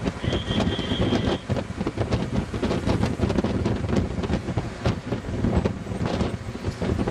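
Continuous rumbling and rattling of a moving vehicle, with a high-pitched horn beeping for about a second near the start.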